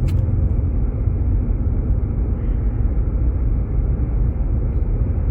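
Steady low rumble of tyre and engine noise heard inside a Jeep Grand Cherokee's cabin, driving on a snow-covered road.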